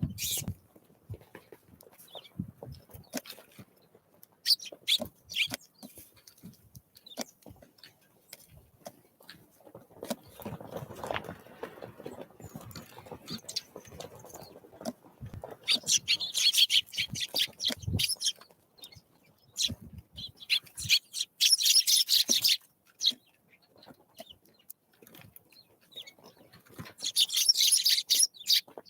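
Wild birds calling, in three bursts of rapid, high chattering calls, with scattered sharp taps between them.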